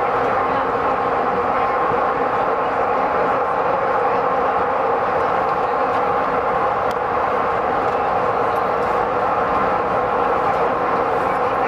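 Airport transit train running at speed through a tunnel, heard from inside the car: a steady, even running noise with a constant whine.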